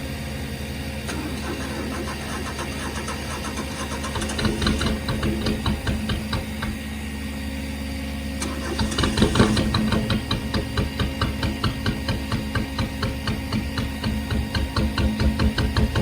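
Car engine running with a rapid pulsing beat, given a brief rev about nine seconds in, after which it runs louder and keeps pulsing.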